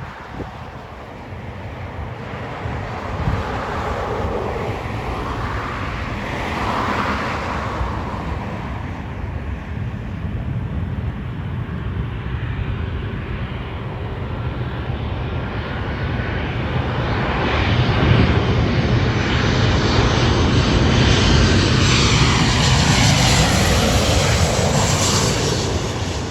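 Jet engines of an arriving Boeing 737-700 (CFM56 turbofans), a steady rushing noise that builds to its loudest over about twenty seconds, with a whine that falls in pitch as the aircraft passes, then starts to fade near the end.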